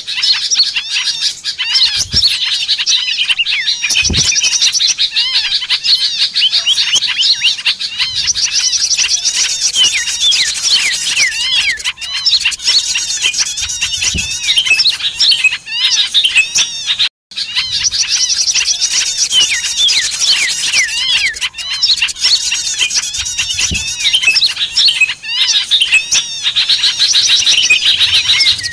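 A noisy chorus of many small birds chirping and trilling at once, fast repeated notes overlapping without pause: a bird-luring track of agitated small birds. The chorus cuts out for an instant about two-thirds of the way through.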